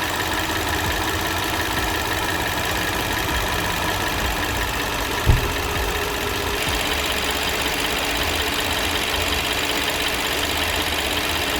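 Hyundai Grandeur HG car engine idling steadily, with a single thump about five seconds in.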